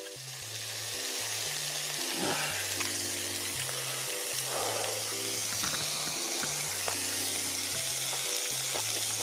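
Pork belly, kimchi and dureup shoots sizzling on a hot cast-iron cauldron lid, a steady hiss that swells over the first second. Background music with a simple pattern of low bass notes plays over it.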